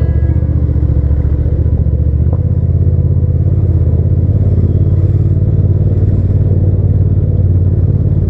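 Hyosung GT650's V-twin engine running steadily under way. About two seconds in there is a click and the engine note changes.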